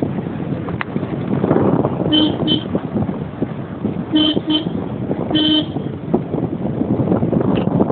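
Vehicle horn honking: two short toots, another two, then a longer toot, over steady wind and road noise from a moving car.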